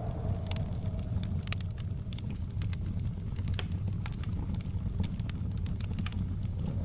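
Snowstorm wind rumbling low and steady, with a faint howling tone that fades out about a second in and comes back near the end, over scattered sharp crackles and ticks.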